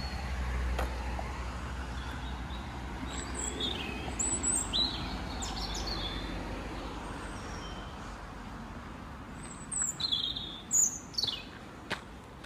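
Wild birds chirping, with short high calls scattered through, over a steady low background rumble that fades somewhat in the second half.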